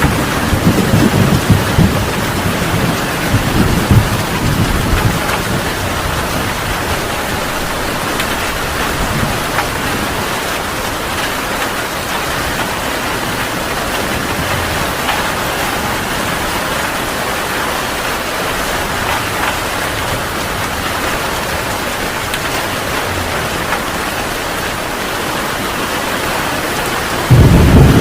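Heavy rain falling in a steady hiss, with thunder rumbling in the first few seconds and then fading. A sudden loud clap of thunder breaks in just before the end.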